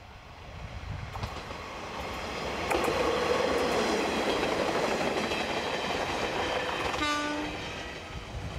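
A Kanto Railway KiHa 532 diesel railcar passing, its engine and wheels swelling to a close pass and then fading. A short single-note horn blast sounds about seven seconds in.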